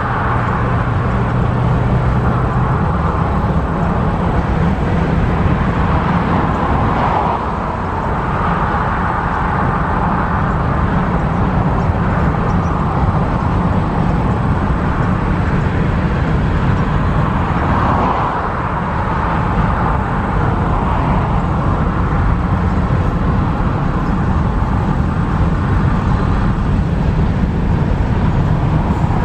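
Freight cars of a CSX manifest train, covered hoppers and tank cars, rolling past: a steady rumble of steel wheels on rail. A low hum dies away about three seconds in.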